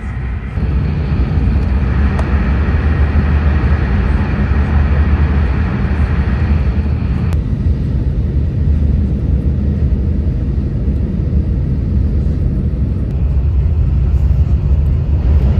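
Shinkansen train noise: a steady low rumble with a hiss above it. About seven seconds in the hiss suddenly drops away, while the rumble carries on.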